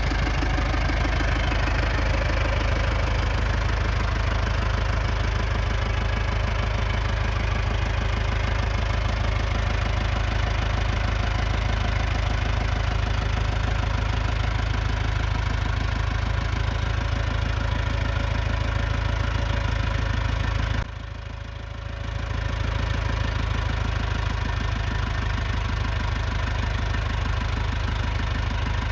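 International 674 tractor's four-cylinder diesel engine idling steadily. The sound drops away briefly about two-thirds of the way through, then returns.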